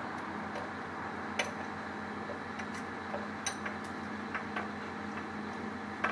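A truck engine idling steadily, with scattered light clicks and ticks over it.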